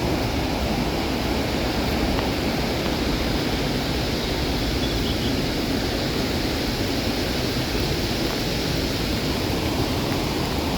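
Fast mountain river rushing: a loud, steady, unbroken noise of water.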